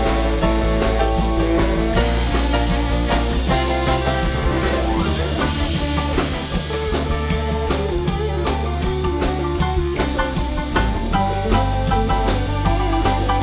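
Live band playing an instrumental break of a soul-rock song, with drum kit, bass and guitar and no singing.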